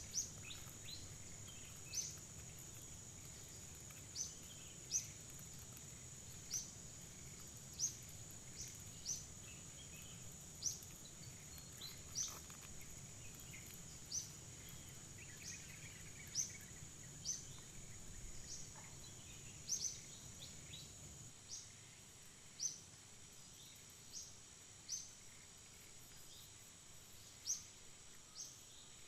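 Forest ambience: a steady, high insect drone, with short, high chirps falling in pitch that repeat unevenly about once a second. A faint low rumble drops away about two-thirds of the way through.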